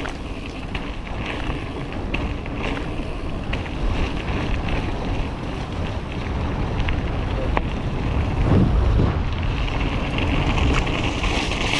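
Wind buffeting the microphone of a helmet or bike camera during a fast mountain-bike descent, a steady low rumble with scattered clicks and knocks from the bike rattling over the wet trail. The rumble swells briefly about three quarters of the way through.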